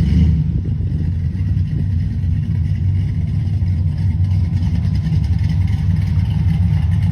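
Muscle car engine running with a steady low rumble, with no rise or fall in revs.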